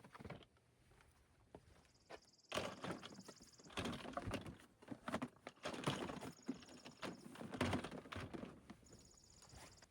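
Irregular taps, clicks and knocks with some rustling, getting busier about two and a half seconds in.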